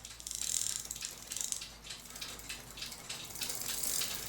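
Cuckoo clock movement's chain wheel turned by hand to feed the chain through, its ratchet clicking in a fast run of small clicks.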